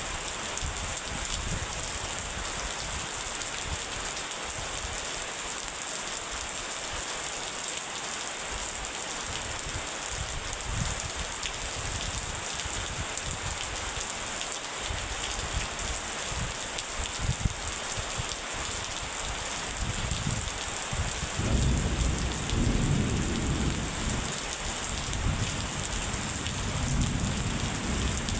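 Steady rain falling, with low thunder rumbling. The thunder swells about two-thirds of the way in and keeps rolling to the end.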